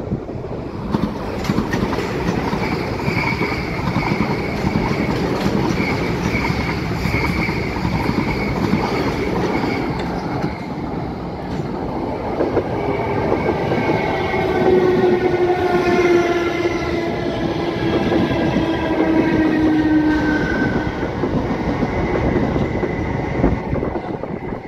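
South Western Railway electric passenger trains passing on the tracks, with a continuous rumble and clatter of wheels on rail. Midway through, a whine with several tones slides slowly down in pitch over several seconds.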